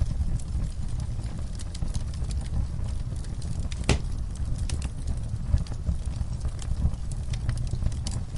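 Wood fire burning in a fireplace: a steady low rumble of flames with scattered crackles and pops, and one sharper crack about four seconds in.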